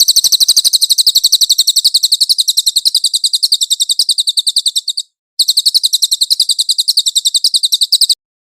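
A cililin songbird singing a rapid chattering trill of sharp, high notes, about a dozen a second, with a brief break about five seconds in and a stop shortly before the end.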